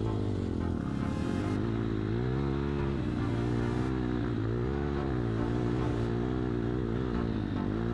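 Lada Niva 4x4 engine working under load while driving off-road, its note rising and falling repeatedly as the revs change.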